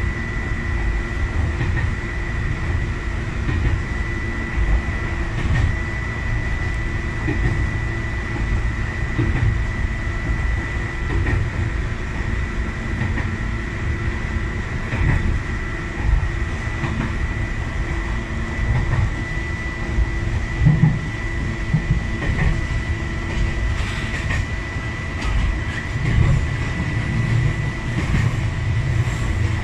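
Sangi Railway 801-series electric train running along the track, heard from inside the driver's cab. A steady rumble of wheels and motors is joined by a constant high tone, with a few sharp clicks from the wheels near the end.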